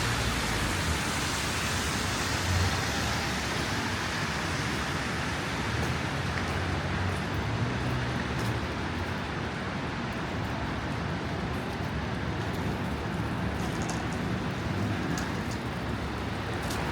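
Steady rush of city street traffic mixed with strong wind buffeting the microphone, giving an uneven low rumble under the hiss.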